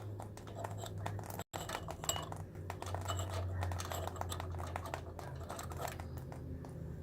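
Light clicks and small taps of a carburetor float bowl and its bowl nut being handled and taken off a small engine, over a steady low hum.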